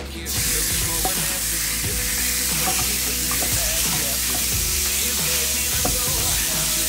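Diced raw chicken landing in a hot frying pan and bursting into a sizzle right at the start, then sizzling steadily while a wooden spatula stirs it, with light scrapes and taps of the spatula on the pan.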